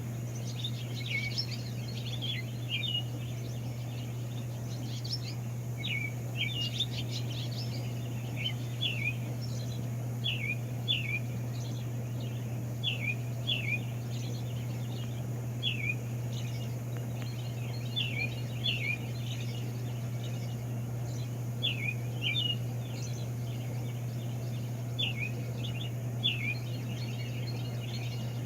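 Songbirds singing in the early morning: short down-slurred whistled notes, often in pairs, repeated every couple of seconds, over a steady low hum.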